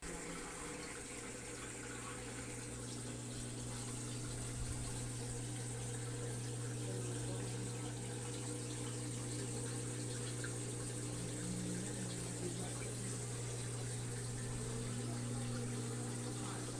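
Whirlpool front-load washing machine running with water flowing and a steady low hum, starting suddenly.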